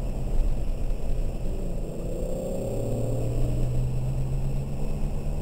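2003 BMW 330i ZHP's straight-six heard from inside the cabin, running at a moderate pace with its note shifting in pitch, over a steady rumble and hiss from the tyres on a wet track.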